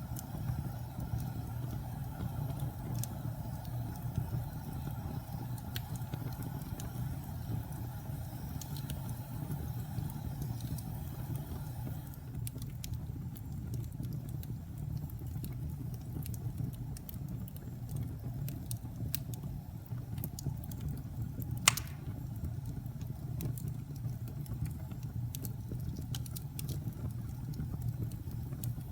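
Wood fire burning in a fireplace: a steady low rumble with scattered faint crackles and one sharp, loud pop about three-quarters of the way through.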